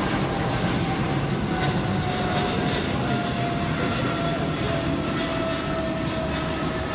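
Jet airliner taking off: a steady engine roar with a whine that slowly falls in pitch.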